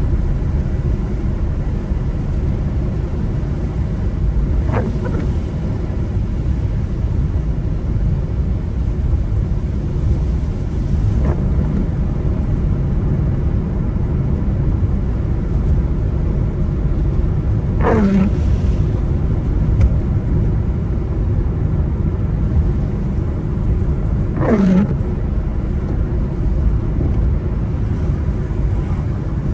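Steady low rumble of a car driving on wet roads, engine and tyre noise. A short falling swish comes about every six or seven seconds, four times, typical of windscreen wipers on an intermittent setting.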